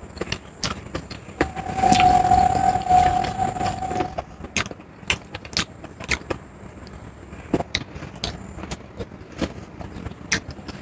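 Close-up eating sounds: irregular sharp clicks and smacks of chewing and handling food, scattered through. About a second and a half in, a steady held tone with a hiss rises over it for roughly two and a half seconds, then stops.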